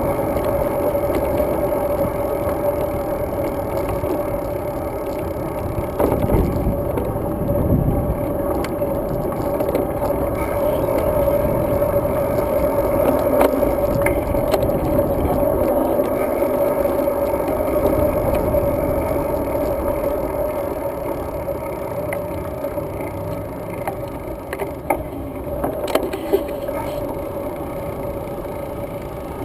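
Road-bike riding noise picked up by a GoPro Hero 2: steady wind and road rumble with a constant hum, and a few sharp clicks and rattles, slightly quieter in the last third.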